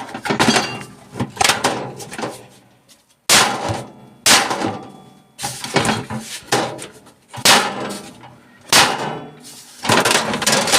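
A hammer striking the metal of a microwave being stripped for scrap, about nine blows at roughly one a second, each with a short metallic clang, knocking a part loose.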